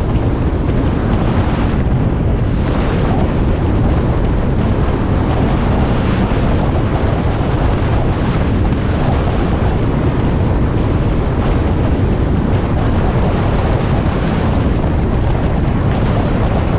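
Steady, loud wind rush on the microphone of a motorcycle moving at speed, low and even throughout, with no engine note standing out of it.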